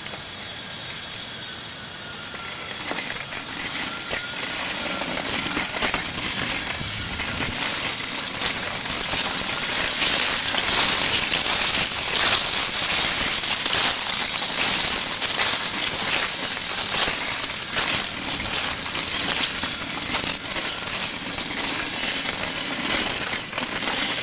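A child's bike rattling and clattering as it rolls over rough ground, louder from a few seconds in.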